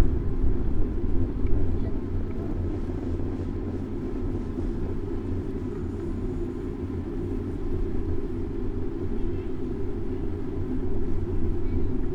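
Steady low rumble of wind and road noise on a bicycle-mounted action camera's microphone while riding through city traffic.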